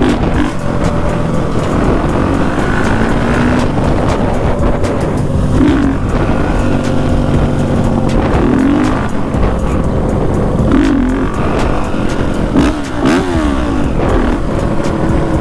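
Honda CRF450 four-stroke single-cylinder dirt bike engine running under way, with several short rises and falls in revs.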